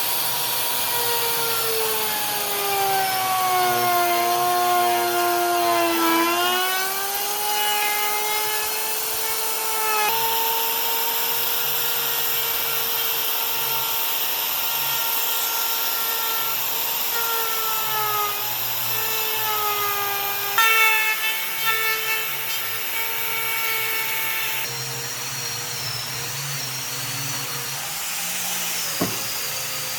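A handheld electric power tool working wood, its motor whine dropping in pitch as it bears into the wood and climbing back as the load eases. The sound changes abruptly a few times, with a few sharp knocks about two-thirds of the way through.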